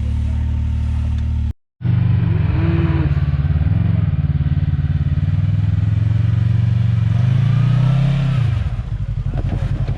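Side-by-side UTV engine idling steadily, cut off briefly about a second and a half in, then revved up and down several times before settling back to a lumpy idle near the end.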